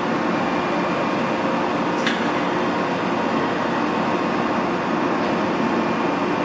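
Steady hum of a Keikyu 1000 series train standing at an underground subway platform, with a single sharp click about two seconds in.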